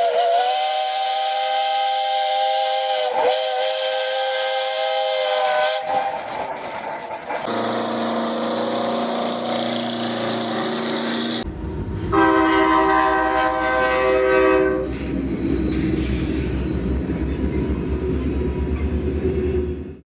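Multi-tone air horns on trucks sounding three long blasts, each a steady chord, the second lower in pitch and the third the loudest. A diesel engine runs under the last blast and on after it.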